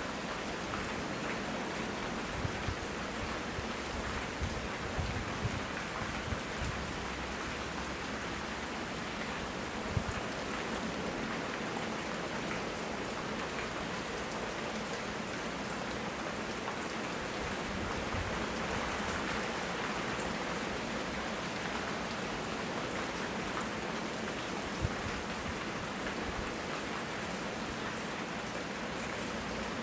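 Steady rain falling, an even hiss of drops on surfaces, with a few soft low thumps in the first several seconds and a single sharper tick about ten seconds in and again near twenty-five seconds.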